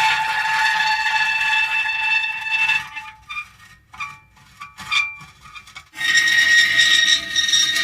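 Metal creaking: a long, drawn-out squealing creak, then a few seconds of short broken creaks, then another long creak starting about six seconds in.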